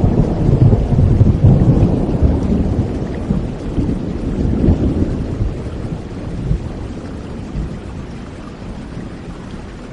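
Thunderstorm: a long rumble of thunder, loudest in the first two seconds, rolling on and fading away over the rest, over steady rain.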